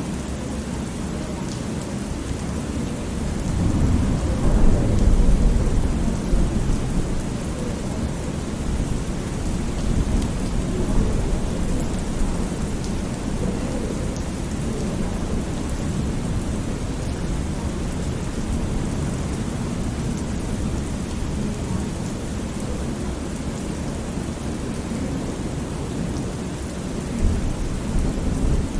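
Thunderstorm ambience: steady rain with rolling thunder. A low rumble swells about four seconds in and fades, and another comes near the end.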